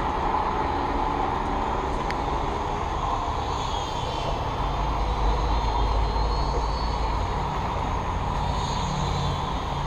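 Syma X5C quadcopter's small motors and propellers whining in flight, swelling twice as it comes nearer, over a steady hiss of falling rain.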